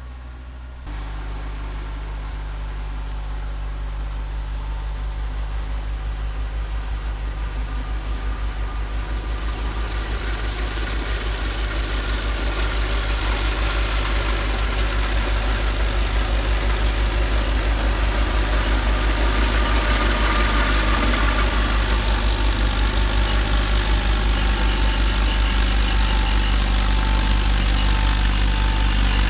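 Ford diesel tractor engine running steadily with a rear three-point Nortrac snowblower, a fast even low pulse throughout. About a second in the sound steps up, then grows gradually louder with a rising hiss.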